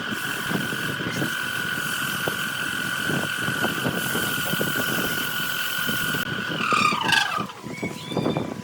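Wood lathe running with a steady high whine and irregular scraping from the tool working the wood. About seven seconds in, the lathe is switched off and its whine falls quickly in pitch as it spins down.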